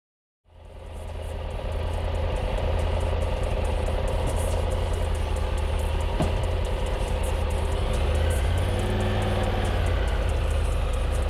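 Triumph Tiger 800's three-cylinder engine running steadily with wind and road noise, fading in from complete silence about half a second in.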